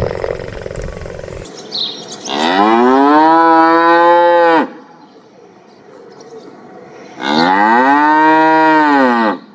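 Holstein-Friesian cows mooing: two long moos about three seconds apart, each lasting about two seconds, rising in pitch at the start and dropping at the end. Before them, a low rough sound cuts off about a second and a half in.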